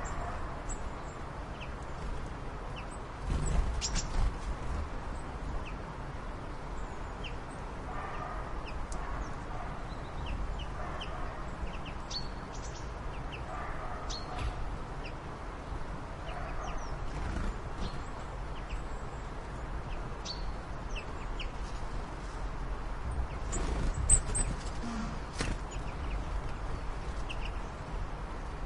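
Birds calling: scattered short chirps and some lower calls over a steady low rumble. Two louder knocks come about three and a half seconds in and again near the end.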